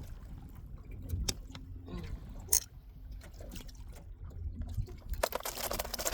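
Water splashing and dripping, with scattered light knocks and one sharp click about two and a half seconds in, then a short louder rush of splashing near the end.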